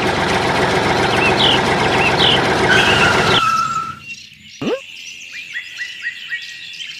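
Small birds chirping repeatedly. For the first three and a half seconds a loud, steady noise runs under them and then cuts off abruptly, leaving only the chirps.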